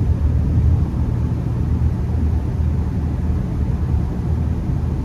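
Steady low rumble of engine and tyre noise inside the cabin of a moving Honda Accord.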